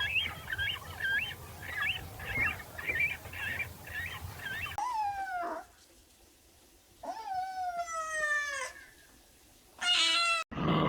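Animal calls: a run of short, high squeaks, about two a second, over a low hum. Then two drawn-out cries that fall in pitch, and a cut to another call near the end.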